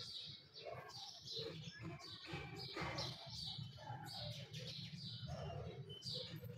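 Small birds chirping repeatedly, short falling chirps several times over, above a faint steady low hum.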